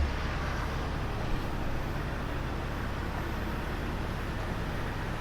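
Steady, even vehicle noise with no clear engine tone.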